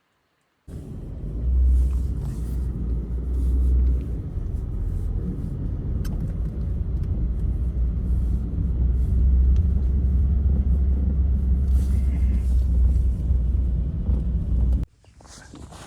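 Blizzard wind rumbling on the microphone: a loud, steady low rumble that cuts in suddenly just under a second in and stops abruptly near the end.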